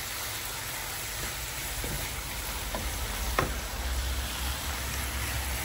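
Fenugreek leaves and masala sizzling in oil in a non-stick frying pan while a wooden spoon stirs them, with a single sharp knock a little over three seconds in.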